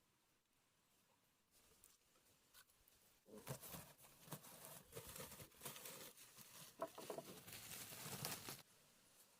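Faint rustling and crackling, a dense run of small scratches and clicks, starting about three seconds in and stopping shortly before the end.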